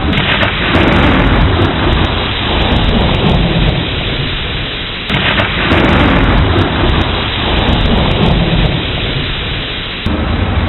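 Thunderstorm with steady heavy rain and deep rolling thunder. Two rumbles come about five seconds apart, each starting abruptly and fading away.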